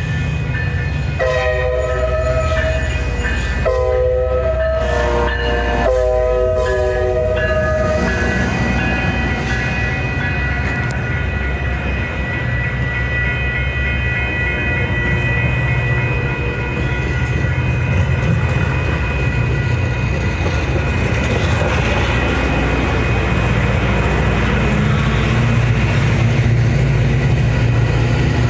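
Locomotive horn sounding three blasts over the first eight seconds, the last the longest, followed by the steady rumble of the train running past.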